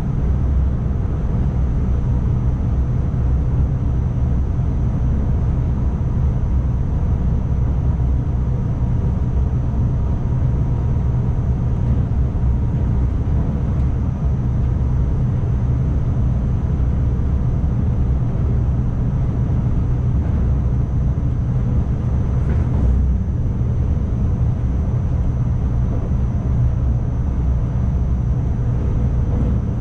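Steady low rumble of an ICMm intercity electric multiple unit running, heard from the driver's cab: wheels on rail and running noise, with a faint steady high whine. There is a brief click about two-thirds of the way through.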